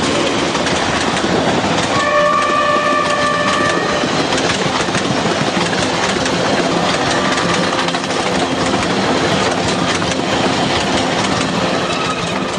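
Indian Railways passenger train running past at speed, the steady noise of its coaches on the track, with the train's horn sounding for about two seconds beginning about two seconds in.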